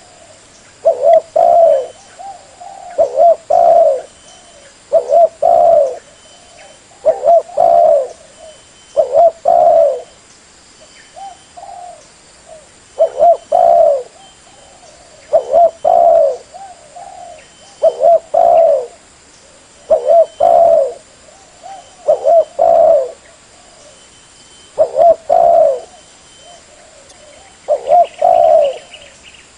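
Spotted dove (tekukur) cooing: a low, rhythmic phrase of two or three coos, repeated about every two seconds.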